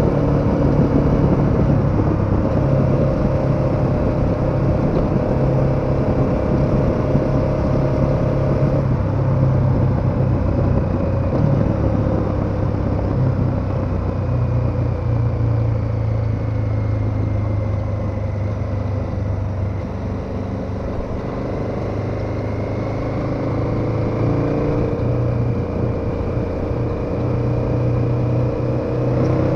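KTM 1290 Super Adventure's V-twin engine running at a steady cruise under wind and road noise; the revs ease off a little past the middle and climb again near the end.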